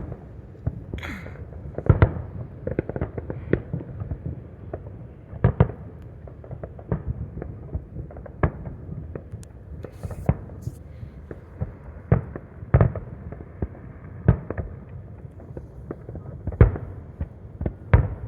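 Aerial fireworks going off, an irregular run of separate bangs and pops, some louder and sharper than others, over a steady low background rumble.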